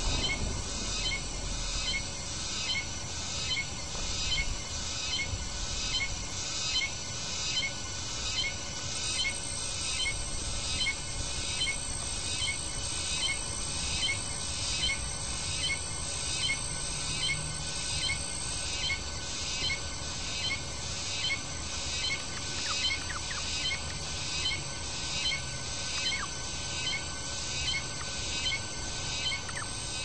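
A small bird chirping over and over at an even pace, about one and a half chirps a second, without a break.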